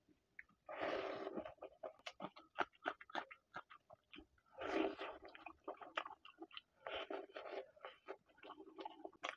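Close-miked eating: wet chewing and lip-smacking as a man eats rice and chicken kosha by hand, with many quick mouth clicks and a few longer, noisier smacking stretches.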